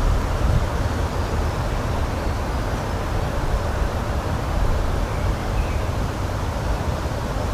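Steady rushing outdoor noise with a heavy low rumble and no distinct events.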